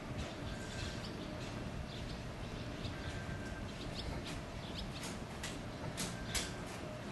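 Small birds chirping, with a few faint short whistles early on and a run of short, sharp high chirps in the second half, over a steady low background rumble.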